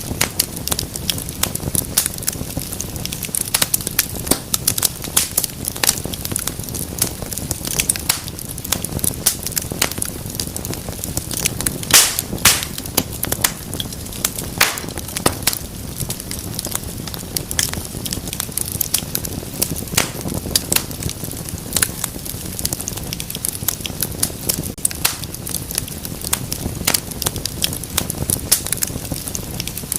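Wood fire burning in a fireplace: a steady low rumble of flames with frequent, irregular crackles and pops, a few louder snaps about twelve seconds in.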